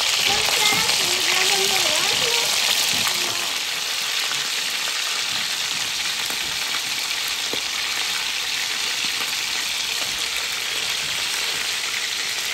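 Fish steaks sizzling in hot oil in a large pot as they shallow-fry, a steady hiss.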